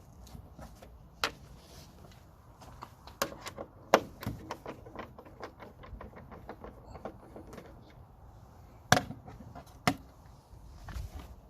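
Hand work with a Torx T20 screwdriver on the car's plastic front grille screws: several sharp clicks and knocks, the loudest about four seconds in and twice near nine and ten seconds, with a run of small quick ticks in between.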